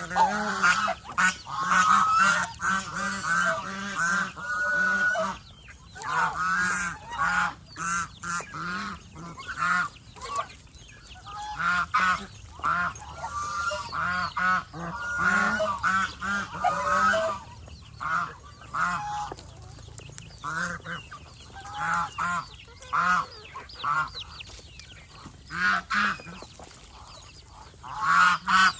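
Domestic geese honking in a long run of short, repeated calls, with a few brief pauses between bouts.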